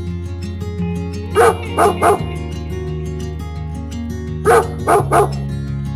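Background music with a dog barking sound effect: three quick barks about a second and a half in, then three more about four and a half seconds in.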